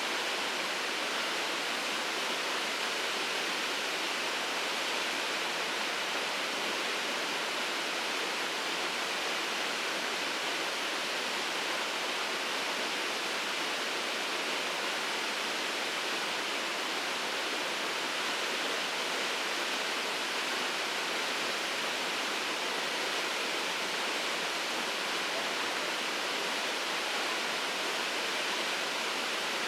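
Steady rush of a waterfall, Shirogane Falls, with water crashing into its pool, an even roar with no breaks.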